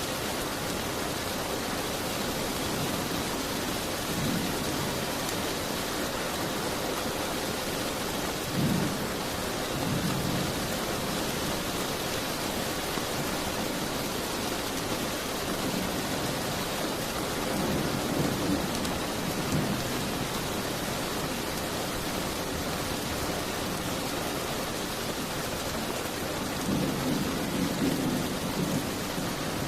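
Steady heavy rain, with several low rumbles of distant thunder rising out of it, the longest near the end.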